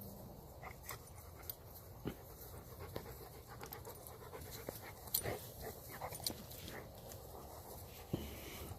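Puppies panting and moving about, with scattered short clicks and knocks; the loudest comes a little past halfway.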